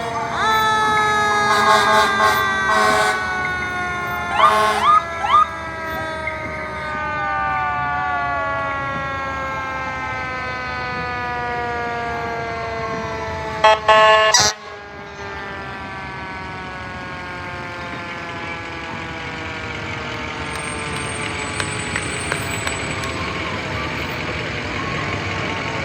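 Fire truck siren winding down, its tone falling slowly in pitch, with several short air horn blasts near the start and one more about halfway through.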